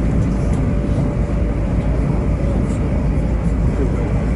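Passenger train running, heard from inside the carriage as a steady low rumble with a faint whine held on one note.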